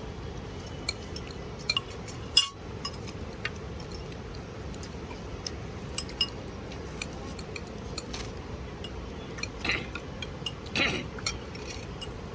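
Dishes and cutlery clinking at a meal: scattered light clicks and chinks over a steady background hiss, with one sharper clink about two and a half seconds in.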